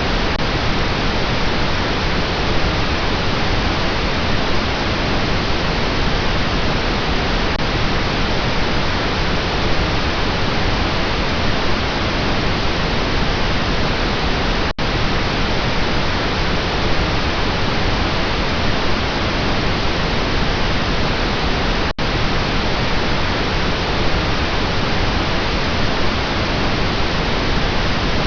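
Steady pink noise, an even hiss across the whole range with no tone or rhythm. It drops out twice for a split second, about halfway through and again some seven seconds later.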